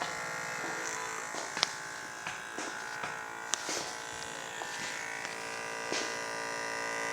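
Small battery-powered DC motor of a homemade model boat running with a steady buzz, broken by a few short clicks.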